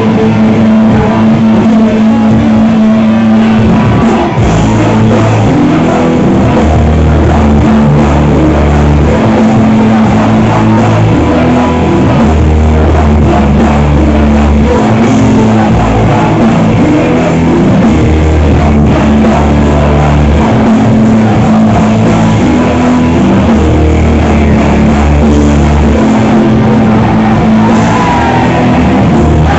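Rock band playing loud, with electric guitar, bass and drum kit; long bass notes change every second or two.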